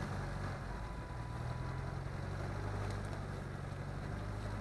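Off-road SUV's engine running steadily at low revs, a constant low drone with road noise underneath.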